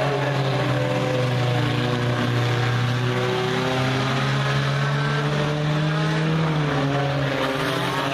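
Race cars' engines running laps on the track, several engine notes overlapping, their pitch rising and falling as the cars accelerate and lift off around the oval.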